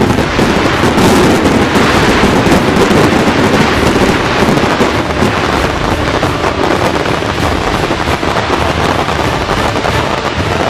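Fireworks barrage: a loud, dense run of firecracker bangs fired so fast that they merge into one continuous crackle, with no break.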